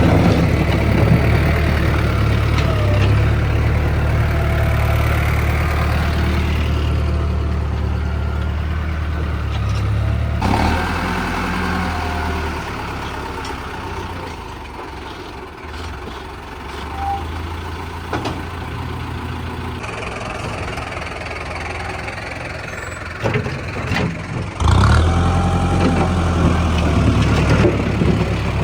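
Tractor diesel engine running steadily, easing off in the middle and picking up again near the end, with a few knocks about ten seconds in and again shortly before the engine picks up.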